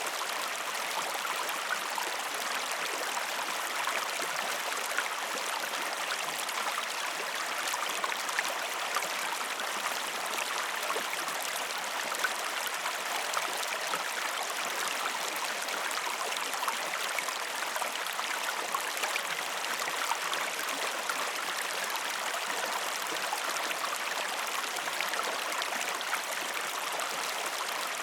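River water flowing steadily: an even rushing with scattered small splashes.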